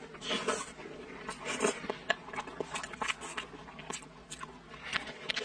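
Close-miked wet chewing of a mouthful of braised pork intestine and glass noodles, with a run of irregular soft smacking and squelching mouth sounds.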